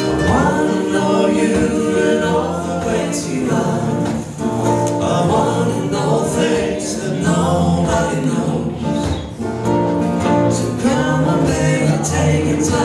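Live acoustic band music: acoustic guitars and ukulele playing, with several voices singing together in harmony, without clear words.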